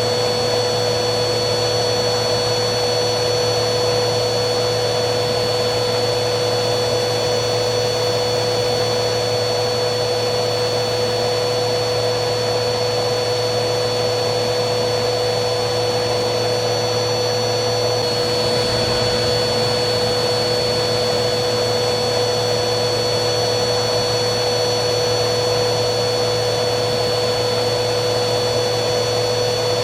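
Vacuum cleaner running steadily: a constant airflow rush with a steady high motor whine.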